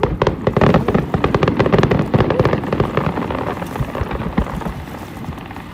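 Fireworks crackling: a dense run of rapid small pops, thickest over the first two or three seconds and thinning out toward the end.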